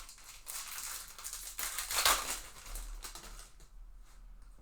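Crinkling and rustling of a foil trading-card pack wrapper and cards being handled, loudest about two seconds in.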